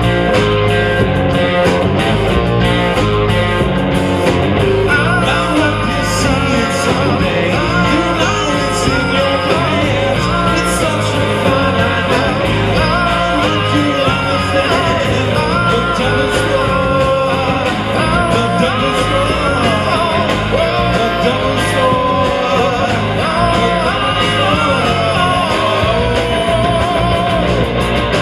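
A rock band playing live and loud, with guitar and a singing voice coming in a few seconds in.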